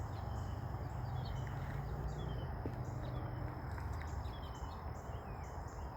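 Birds chirping in short, falling notes over a steady high trill of insects, with a low steady rumble underneath.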